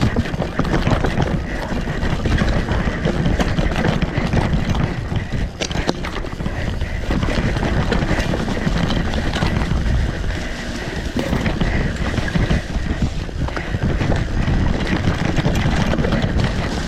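Mountain bike riding down a dirt trail in raw sound: wind buffeting the microphone over the rolling noise of the tyres, with frequent sharp clicks and knocks of the bike rattling over bumps.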